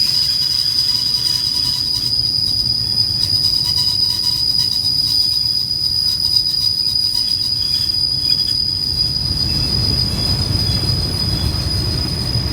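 Passenger train running on the rails, heard from on board: a low rumble that grows louder near the end, under a steady high-pitched whine.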